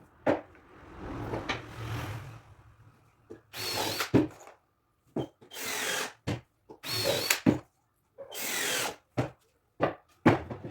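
Power drill driving screws into MDF in short bursts, about five runs of under a second each with a rising whine as the screw seats, and a few sharp knocks in between.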